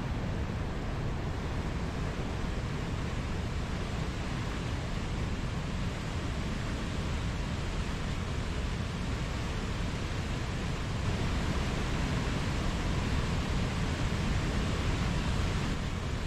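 Mountain stream water rushing in a steady, dense wash, a little louder for a few seconds about two-thirds of the way through.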